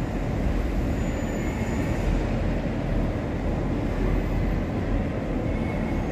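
Electric passenger train running along the tracks below and pulling away: a steady rumble with no distinct knocks or horn.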